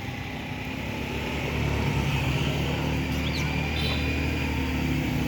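An engine or motor running steadily with a low hum, getting louder about one and a half seconds in.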